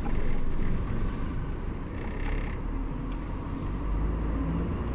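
Bus engine and road rumble heard on board a moving bus: a steady low drone with tyre and road noise, and a brief higher hiss about two seconds in.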